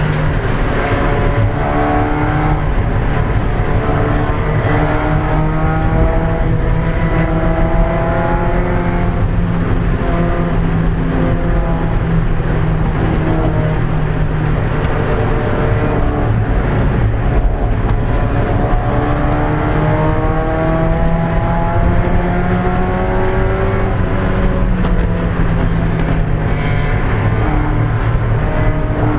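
1995 Mazda Miata's 1.8-litre four-cylinder engine at racing pace, rising in pitch as it pulls through the revs and dropping back, several times over, over a steady rush of road and wind noise.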